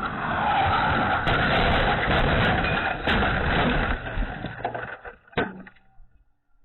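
Road vehicle noise that swells, holds loud for about four seconds with a few sharp knocks, then fades, followed by one sharp click.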